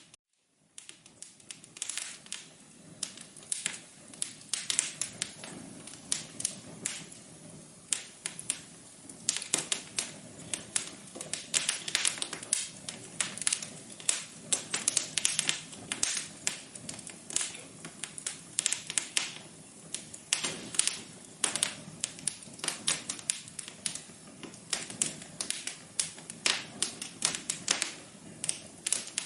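Wood fire crackling in a fireplace: irregular sharp pops and snaps over a soft steady hiss, starting about a second in.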